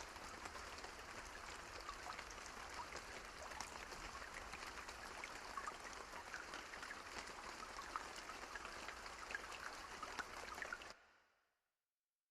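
Light rain falling, a faint steady patter with scattered individual drops; it cuts off abruptly to silence about a second before the end.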